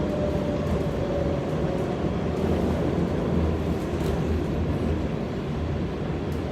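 Heritage electric tram running on its rails: a steady low rumble, with a faint whine that fades out in the first two seconds.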